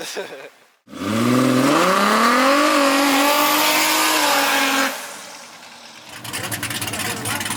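Drag race car engine at full throttle, its pitch climbing for about a second and a half and then holding high before it cuts off sharply about five seconds in. Near the end a rougher engine with a rapid clatter starts up.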